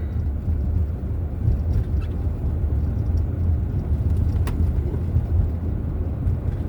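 Steady low rumble of a van's engine and tyres heard from inside the cab while driving, with a faint click about four and a half seconds in.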